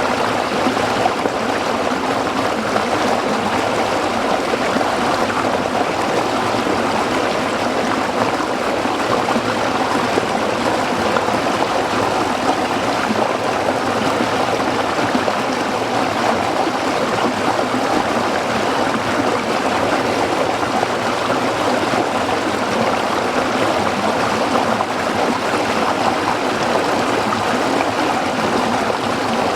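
Small stream flowing and babbling over rocks, steady and unbroken.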